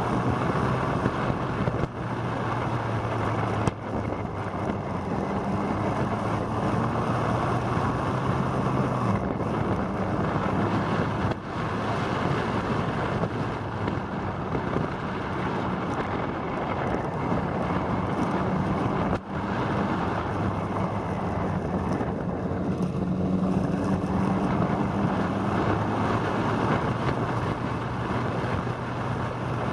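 Motorcycle engine running under way, its pitch shifting several times with changes of speed, over steady wind rush on the microphone.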